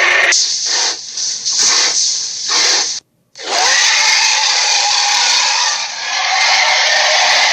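Dragon sound effect made of harsh, noisy breath-like sound: a run of short bursts about two a second, a sudden cut-out about three seconds in, then one long unbroken stretch of the same noise.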